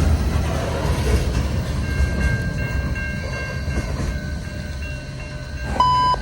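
Freight train cars rolling past with a steady low rumble that slowly fades. Near the end a short beep sounds as a trackside defect detector's radio broadcast comes on.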